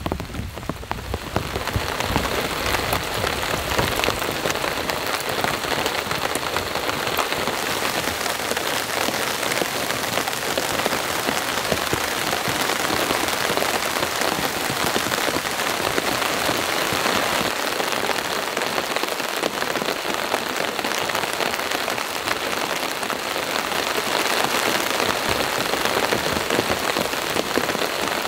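Heavy rain falling steadily on a tarp, a dense, even hiss of drops.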